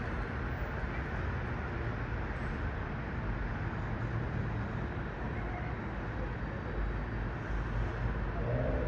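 Steady low rumble of outdoor background noise, with no single event standing out.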